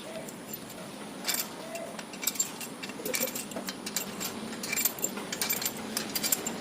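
Light metallic clinks and taps in short scattered clusters, from parts and hand tools being handled while fitting the cylinder head onto a Proton 4G13 engine block.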